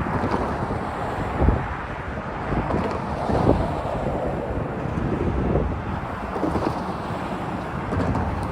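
Wind buffeting the microphone in uneven gusts over a low, steady outdoor rumble.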